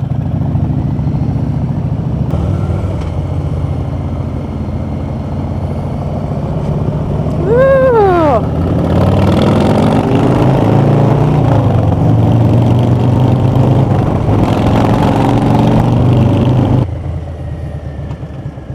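Harley-Davidson V-twin motorcycle engines running. About eight seconds in, after a short pitched sound that rises and falls, the sound gets louder, with engine pitch shifting as the bike rides on. It drops off sharply near the end.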